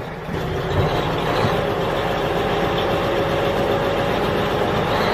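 A vehicle engine running steadily at a constant speed, with a fine rapid pulsing in its low drone.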